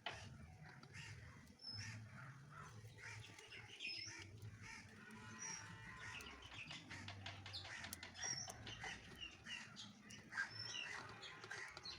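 Burning logs crackling faintly in short irregular clicks, with small birds chirping now and then and a low hum underneath.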